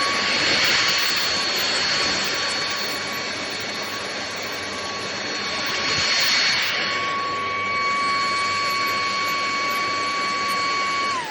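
Ultenic U20 cordless stick vacuum running with a steady high motor whine over rushing air, swelling louder twice. Near the end it is switched off and the whine falls away as the motor spins down.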